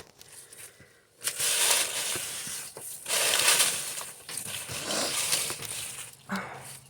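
Rustling and scraping handling noise in several bursts, typical of someone fumbling at and working a small wooden coop door and its fastening.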